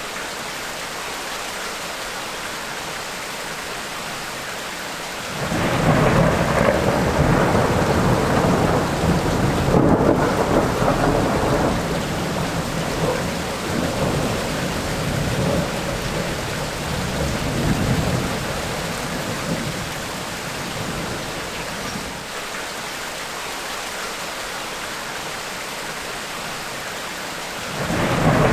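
Steady tropical rain with a long roll of thunder that breaks in suddenly about five seconds in, rumbles for some fifteen seconds and fades back to the rain. A second thunder roll begins right at the end.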